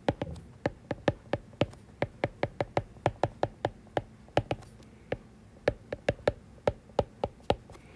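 A pen tapping and clicking against a writing surface in quick, irregular strokes, about three to five a second, as equations are written out.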